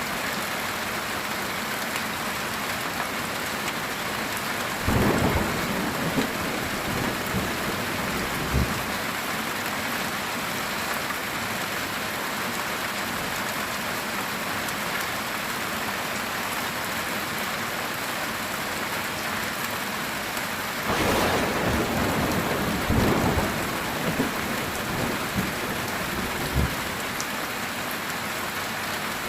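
Heavy rain drumming steadily on a metal tin roof, with two rolls of thunder: one about five seconds in and a longer one starting about twenty seconds in.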